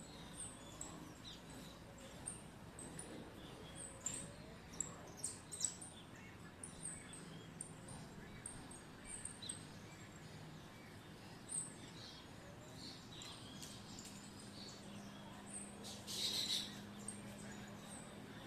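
Birds chirping: many short, high chirps scattered through, with a louder, rougher burst near the end.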